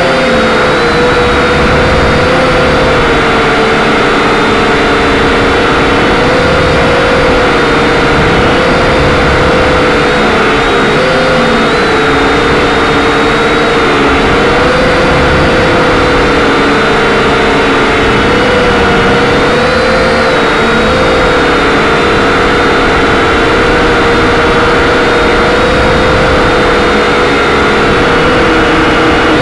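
Quadcopter's electric motors and propellers whining loudly and steadily, the pitch wavering slightly up and down as the throttle shifts.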